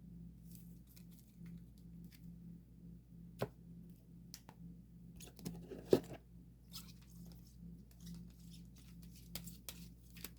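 Photocards being handled and sorted: light rustling and crinkling with scattered small clicks, and two sharper taps about three and a half and six seconds in.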